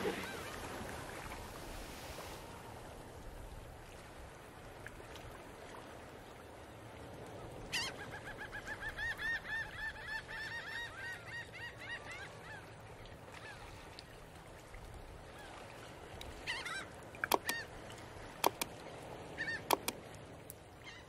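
Faint outdoor background with a bird giving a rapid run of honking calls, about four a second for some five seconds midway. A few sharp clicks follow near the end.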